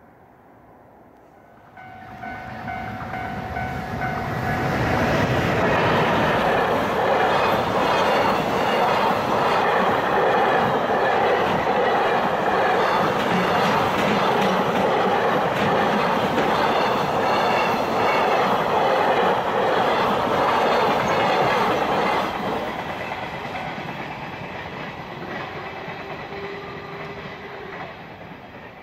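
Container freight train passing: the sound builds quickly from about two seconds in, stays loud as the string of wagons rolls by for some fifteen seconds, then fades away.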